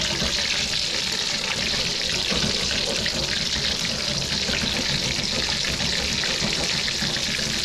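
Breaded cutlet shallow-frying in hot oil in a skillet, a steady crackling sizzle as the oil is kept moving around it and the crust puffs up.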